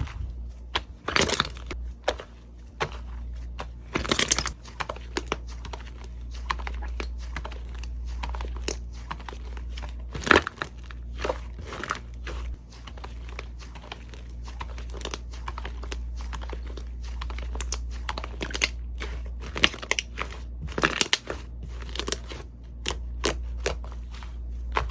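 Slime being squeezed and worked by hand, giving irregular crackling and popping clicks with a few longer crinkly stretches.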